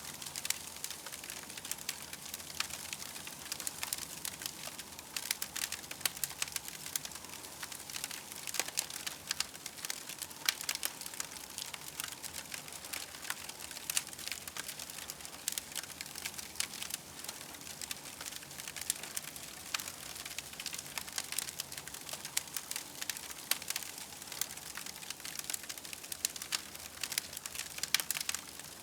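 Campfire crackling steadily: dense, irregular pops and snaps over a soft hiss.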